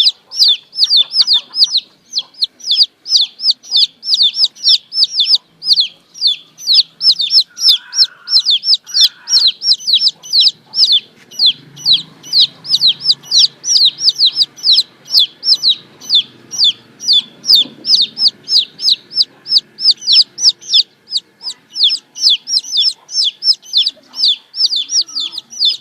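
Domestic chicks peeping: a continuous run of short, high, falling peeps, about four a second.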